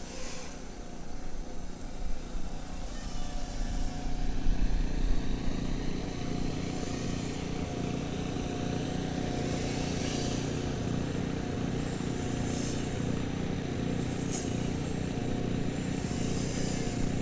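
FPV racing quadcopter's motors buzzing steadily in flight as it comes in to land, with some wind on the microphone.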